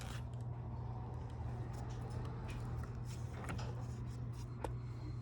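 A few faint, irregular clicks and taps of garage door opener parts being handled and fitted, over a steady low hum.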